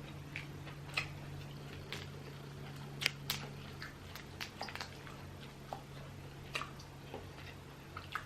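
Close-up eating of boiled crawfish: shells cracking and peeling, with chewing and wet sucking, in short irregular clicks and snaps. A steady low hum runs underneath.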